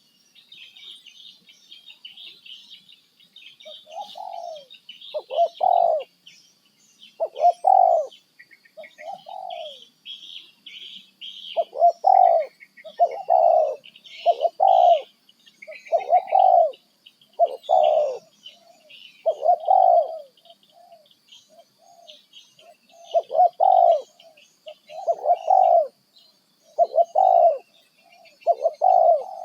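Birds calling: a short, lower-pitched call repeated about once a second, starting a few seconds in, over continuous quick, high chirping.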